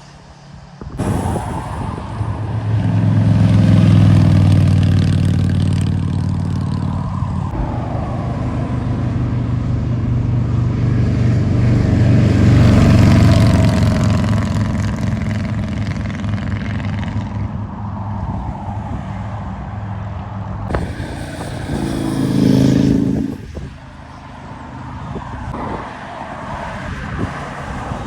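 Motorcycle engines passing on a road. The sound swells loudest about four seconds in and again around thirteen seconds, with a shorter, sharper swell a little after twenty-two seconds.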